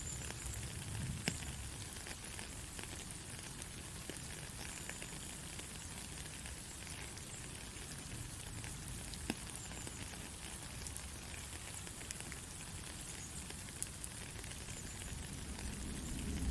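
Heavy rain falling steadily, with scattered sharp drop ticks through it and a low rumble starting to swell near the end.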